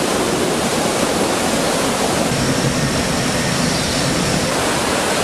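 Steady, loud rush of falling water, like a waterfall.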